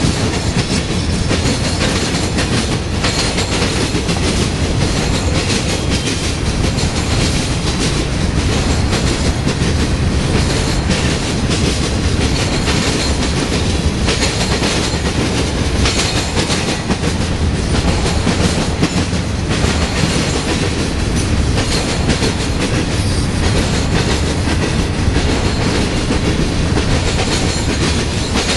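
Freight cars of a manifest train, mostly tank cars, rolling past steadily, their steel wheels clacking over the rails above a continuous low rumble.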